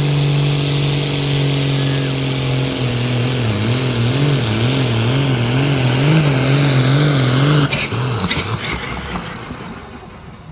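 Pulling machine's engine running hard under the load of the weight-transfer sled. About three seconds in its pitch drops and then surges up and down about one and a half times a second as it bogs under the load, until the engine cuts off abruptly near eight seconds in.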